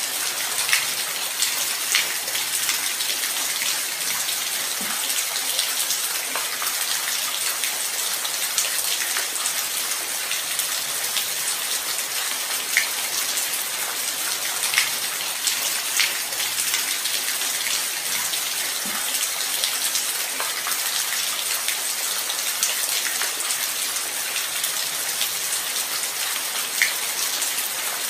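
Light rain falling steadily, an even hiss with scattered louder drops ticking.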